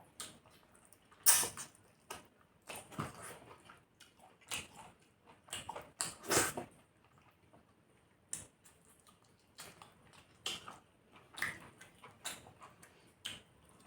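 Close-miked mouth sounds of someone eating chicken curry with rice: wet chewing and lip smacks in short, irregular bursts, the loudest about a second in and again around six seconds in.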